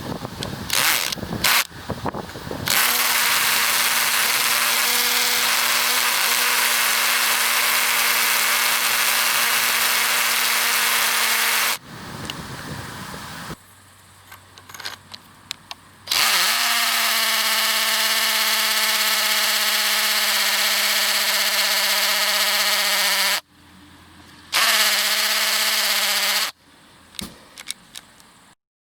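Vikhr DA-18L-2KU cordless drill-driver motor spinning up in a few short trigger blips, then running at steady speed for about nine seconds. It stops, runs again for about seven seconds, then gives one short final run.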